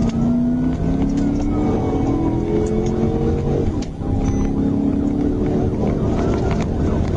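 Police car siren wailing in slow rising and falling sweeps over the patrol car's engine accelerating hard, its pitch climbing, dropping about four seconds in as it shifts, then climbing again, with heavy road noise.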